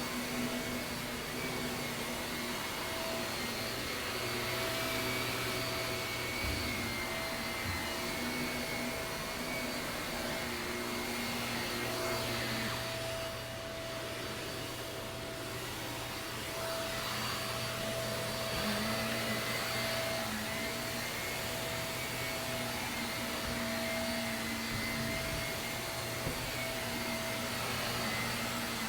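Shark vacuum cleaner running steadily over carpet, a continuous motor whine that dips slightly in loudness about halfway through.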